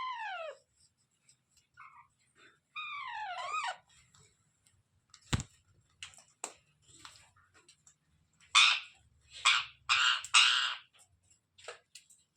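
Parrot calling: a falling call at the start, a quick run of rising-and-falling chirps about three seconds in, then a sharp click, and near the end several loud, harsh screeches, the loudest part.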